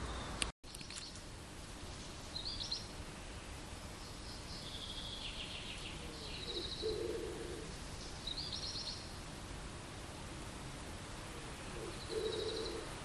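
Songbirds singing short, rapid trilled phrases every second or two over a steady outdoor background hum. Two of the phrases have a lower, pulsing note alongside. The sound drops out briefly about half a second in.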